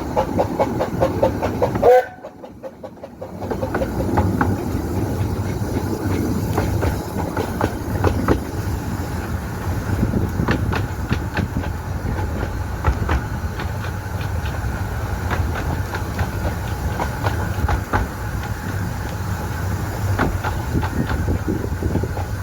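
Romney, Hythe & Dymchurch Railway 15-inch-gauge miniature train running along the track: a steady rumble with scattered clicks of the wheels over the rails. The sound drops away abruptly about two seconds in, then comes back.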